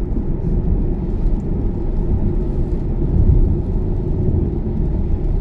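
Steady low rumble of road and tyre noise inside a Tesla's cabin at motorway speed. It is an electric car, so there is no engine sound.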